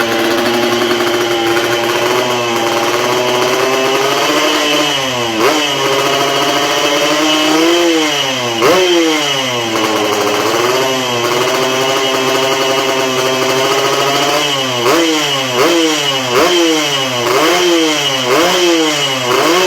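Yamaha RX-series two-stroke motorcycle engine through a racing exhaust, idling at first, then revved up and down several times. Near the end come quick throttle blips about once a second.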